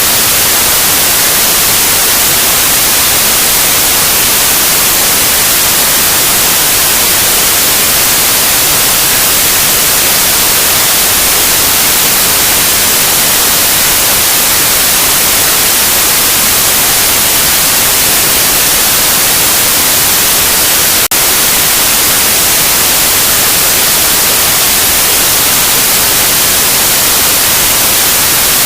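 Loud, steady white noise: an even hiss with most of its weight in the highs, unbroken except for one tiny click-like dip about two-thirds of the way through.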